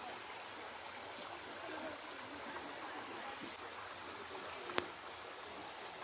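Hot mineral spring water gushing steadily from the rock, with one sharp click nearly five seconds in.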